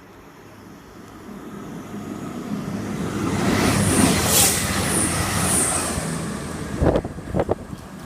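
A CrossCountry Voyager diesel train passes straight through the station without stopping. It approaches from a faint rumble, is loudest about four seconds in with a high hiss, then fades. A few sharp knocks come near the end.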